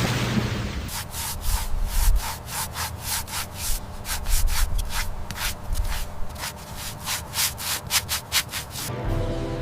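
Hand sanding: quick, uneven scraping strokes, a few a second, starting about a second in after a steady hiss and stopping just before the end.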